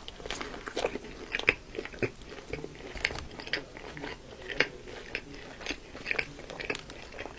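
A person biting into and chewing a McDonald's Quarter Pounder burger, with many small irregular wet clicks and smacks of mouth sounds close to the microphone.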